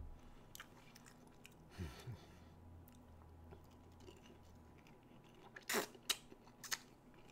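A person chewing a McDonald's Chicken McNugget with the mouth close to the microphone, faint and soft, with three sharp mouth clicks in quick succession about six seconds in.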